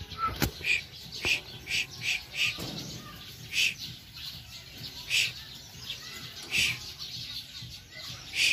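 Birds chirping: a run of short, high chirps at irregular intervals, about ten in all, with a single sharp click just after the start.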